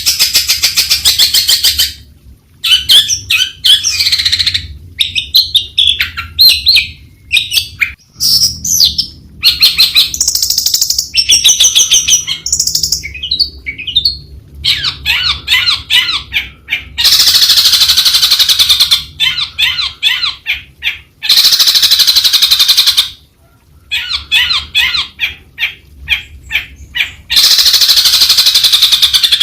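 Long-tailed shrike singing a long, varied song: fast runs of harsh, rapid chattering notes mixed with whistled gliding notes, broken by a few short pauses.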